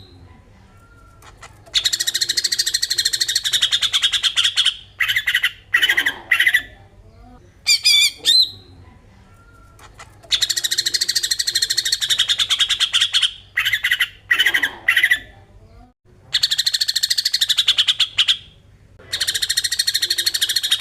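Cucak ijo (leafbird) singing its 'besetan' song: long, fast rattling bursts of two to three seconds, about four of them, alternating with short whistled phrases.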